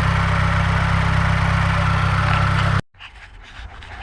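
Mazdaspeed 3's 2.3-litre turbocharged four-cylinder engine idling steadily, warming up. The sound cuts off abruptly near the end, leaving faint, scattered noises.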